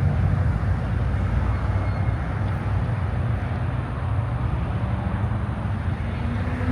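Vehicle engines running at idle, a steady low rumble. From about five seconds in, one engine's pitch rises slowly.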